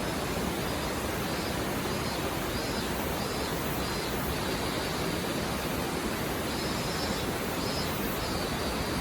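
Mountain stream flowing over rocks: a steady, even babbling rush of water.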